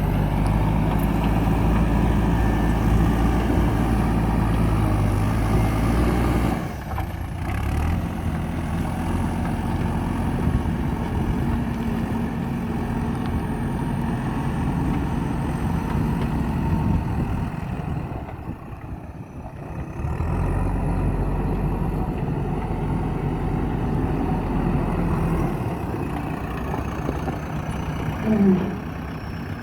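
JCB backhoe loader's diesel engine running under changing load, its note dropping away about six seconds in and again about two-thirds of the way through before picking back up. A brief rising tone sounds near the end.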